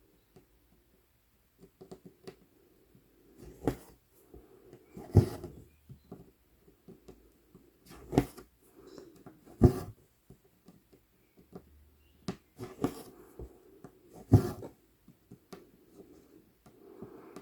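Cross-stitch needle popping through 11-count Aida fabric and embroidery floss being drawn through it, close to the microphone: sharp taps every second or two, with soft rustling of thread between.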